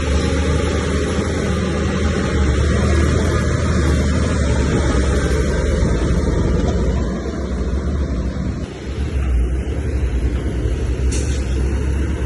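Heavy earthmoving machine's diesel engine running steadily under load, with a deep low hum, easing off briefly about seven to nine seconds in before picking up again.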